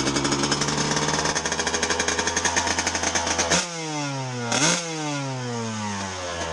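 Two-stroke dirt bike engine running with a rapid rattling beat; about halfway through the sound changes and its pitch falls, with a quick rev blip about a second later before the pitch falls again.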